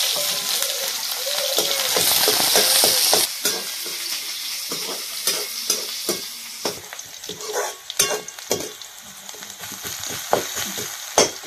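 Chopped onions and garlic sizzling loudly in hot oil in a kadhai, the hiss dropping noticeably after about three seconds, while a spatula scrapes and clicks against the pan as they are stirred.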